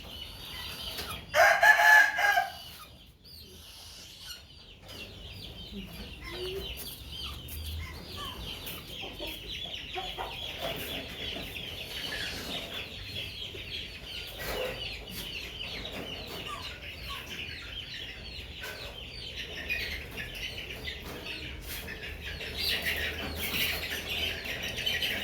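Birds calling: one loud call about a second and a half in, then a long run of rapid, high, repeated cheeping calls.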